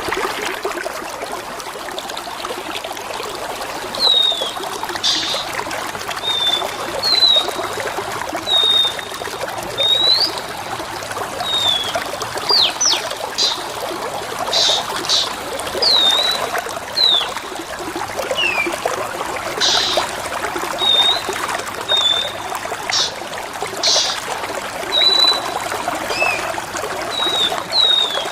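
Steady trickling, running water with a songbird's short high chirps and downward-sliding whistles over it, repeated every second or two.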